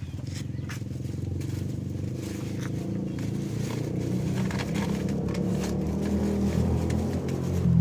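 An engine running steadily, slowly growing louder, then louder again right at the end.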